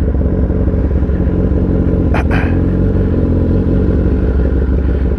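2022 Kawasaki ZX10R inline-four engine idling steadily through its aftermarket exhaust, warming up after a cold start. A short click cuts in about two seconds in.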